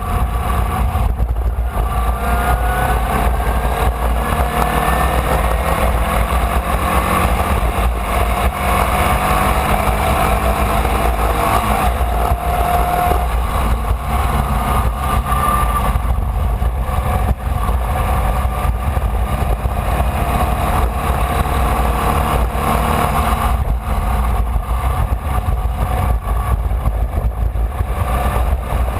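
Formula Vee's air-cooled Volkswagen flat-four engine at racing speed, heard onboard. Its pitch climbs over a few seconds several times and drops back as the car accelerates and shifts, over a steady low rumble.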